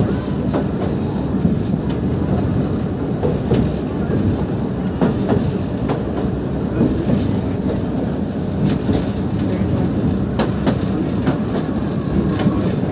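Bangladesh Railway Up Narayanganj Express local passenger train running, heard from on board: a steady rumble of wheels on the track with scattered clicks over the rails.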